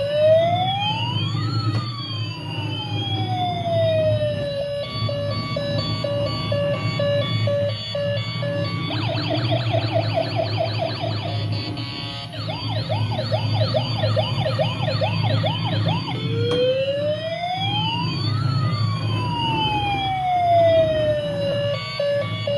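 Toy emergency vehicle's electronic siren cycling through its patterns: a slow rising-and-falling wail, then a steady beeping tone, then a fast warbling yelp for several seconds, then the wail again and the beeping near the end. A steady low hum runs underneath.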